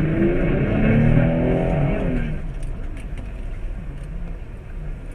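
Car engine revving up for about two seconds, its pitch rising, then giving way to a quieter, steady low rumble.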